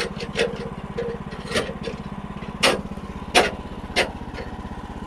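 Portable sawmill's engine idling with an even, fast pulse, and no blade cut under way. Over it come about six sharp knocks and clanks, the loudest a little after halfway through, from the log or the mill's parts being handled.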